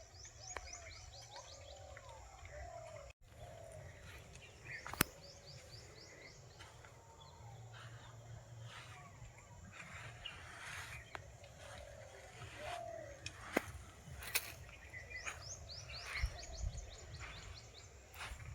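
Forest birds calling. Runs of quick, high, falling notes come several times, and lower curving whistled calls sound between them. A few sharp clicks break in now and then.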